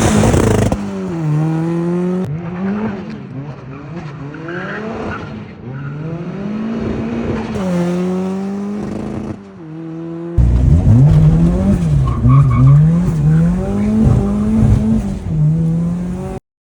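Turbocharged Honda S2000's four-cylinder engine revving hard under acceleration, its pitch climbing and then dropping again with each shift. About ten seconds in it turns louder, with quick rises and falls in revs, and it cuts off suddenly near the end.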